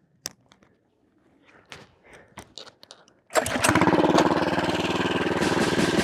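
A few faint clicks, then about three seconds in the mini bike's Tillotson 212 single-cylinder engine starts suddenly and runs steadily.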